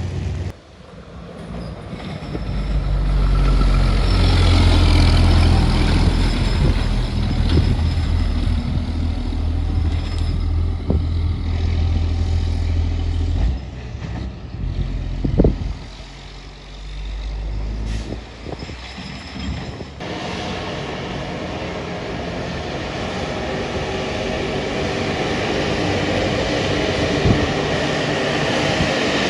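Heavy truck engine running loud and low, strongest in the first half, with one sharp short sound about halfway through; then a steadier engine rumble.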